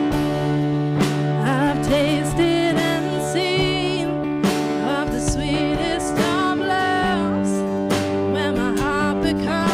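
Worship band music: guitar over steady held chords, with a voice singing long wavering notes.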